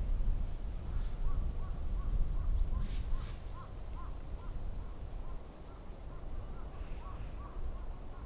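Distant birds calling, a string of faint short calls repeated several times a second, with a couple of harsher calls about three seconds in, over a steady low rumble of wind.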